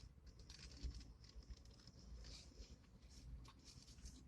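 Faint, irregular crunching and small clicks of someone chewing a big bite of a crispy fried chicken sandwich.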